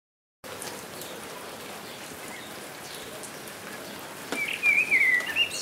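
Steady rain falling, starting suddenly about half a second in. Near the end a bird sings a run of quick warbling chirps over the rain.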